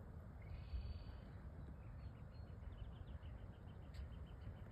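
Faint small bird calling: a brief high trill just under a second in, then a quick run of short high chirps, about six a second, starting about two seconds in. Low wind rumble runs under it.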